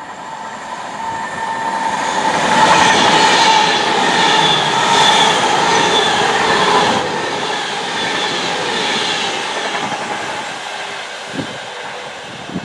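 Avanti West Coast Class 390 Pendolino electric train passing at speed: a rush of wheels on rail and air that swells over the first few seconds, stays loud with a steady whine over it, and fades as the train draws away.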